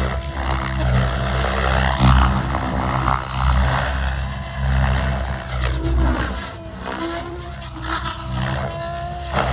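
Electric 700-size RC helicopter, a Tron 7.0 Advance, in flight: the main rotor blades chop and whoosh in repeated surges of loudness, with a motor and drive whine whose pitch rises and falls as the rotor is loaded through manoeuvres.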